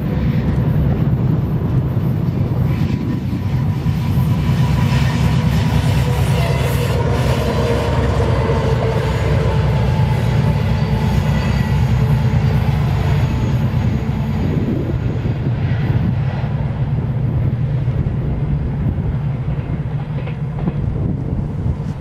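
A train rolling past at close range, its wheels clattering rapidly over the rails in a steady, continuous rumble, with a faint whine in the middle stretch.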